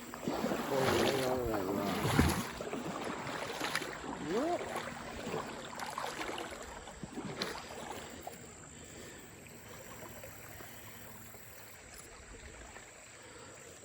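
Creek water sloshing and splashing around the legs of someone wading, loudest in the first few seconds, then settling to a faint steady wash of the stream.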